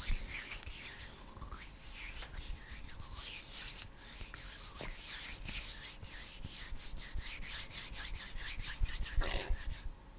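Bare hands rubbing close to the microphone in dry, hissy swishes. About six seconds in they turn into a fast run of crisp clicks, several a second.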